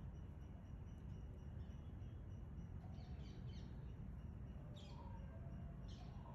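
Faint background rumble with a small bird giving short, high, falling chirps a few times in the second half.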